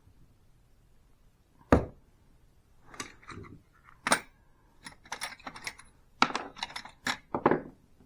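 Small metal clicks and knocks from a hole saw being handled: one sharp knock nearly two seconds in, then runs of quick clinks and taps in the second half.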